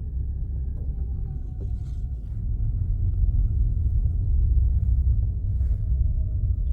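Low road rumble inside a moving car, with a faint whine slowly falling in pitch.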